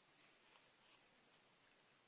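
Near silence: faint room tone, with one soft tick about half a second in.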